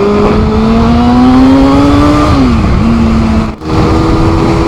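Honda CBR400 motorcycle's inline-four engine under way, its pitch rising steadily for about two seconds, then dropping quickly as the revs fall, then holding steady, with a brief sudden drop-out a little before the end. Wind rush on the microphone underneath.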